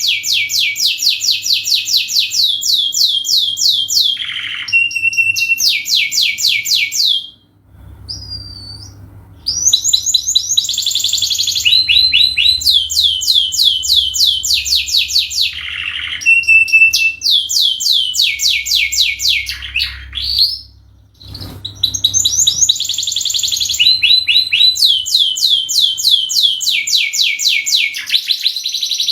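Domestic canary singing long, loud song phrases of fast repeated notes and rolls, with short pauses between phrases.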